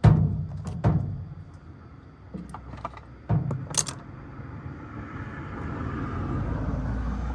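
A few sharp knocks and clicks, then a low running rumble that builds up over a few seconds and cuts off suddenly, as of a washing machine starting to run.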